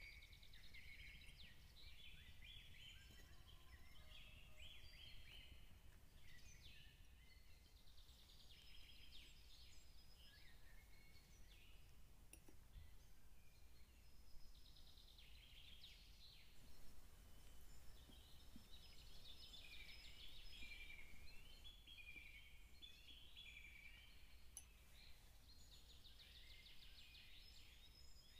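Faint birdsong: many short chirps and trills over a low steady hum.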